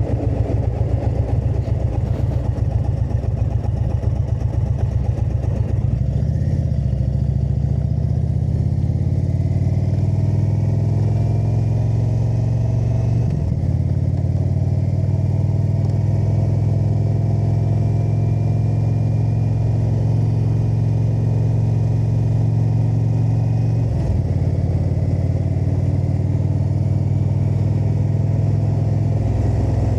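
Indian motorcycle's V-twin engine running with a lumpy pulse at low revs, then pulling away and accelerating about six seconds in. The pitch breaks briefly twice at gear changes, about 13 and 24 seconds in, before settling to steady cruising.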